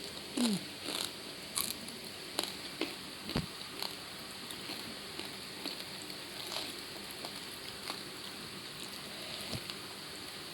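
A person eating close to the microphone: crisp bites and crunching chews, frequent in the first few seconds, then sparser and softer.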